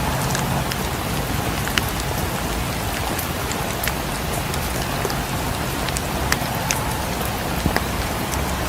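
Steady rain, with scattered sharp clicks and ticks over it.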